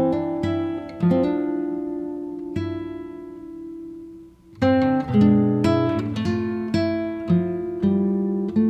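Background music on a plucked acoustic guitar: single notes and chords ring out and fade. A chord is left to die away for a few seconds, and the playing picks up again about halfway through.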